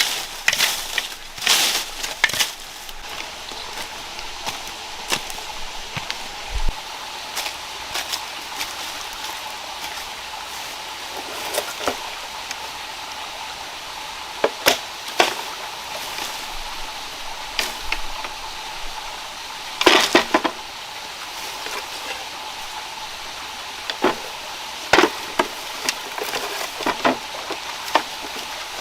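Wood being chopped and split by hand: irregular sharp knocks and cracks, spaced seconds apart, with a cluster of the loudest strikes about two-thirds of the way in. Under them runs a steady faint hum.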